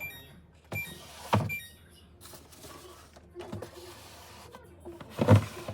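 Kitchen items being handled: a few short high tones in the first second and a half, then separate knocks and a sliding sound, with the loudest knock near the end.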